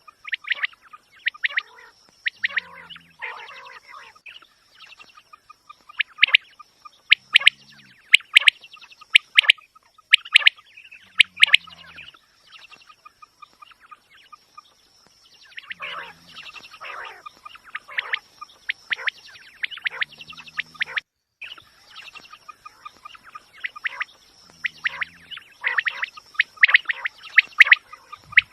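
Recorded quail calls used as a hunting lure: quick clusters of short, sharp call notes in repeated bouts a second or two apart, several bouts opening with a short low note.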